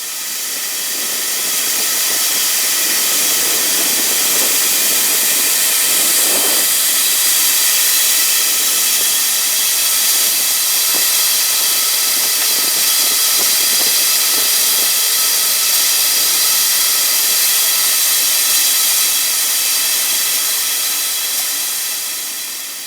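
Shelled corn pouring steadily from the belt of a hydraulic live-bottom grain trailer into the unloading pit: a loud, continuous hiss and rush of kernels, with faint steady machine tones underneath. It swells up over the first couple of seconds and then holds even.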